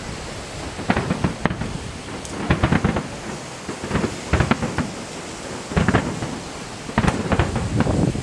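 Fireworks display: shells bursting in a string of booms about every second, some in quick clusters with crackle, over a steady rumble.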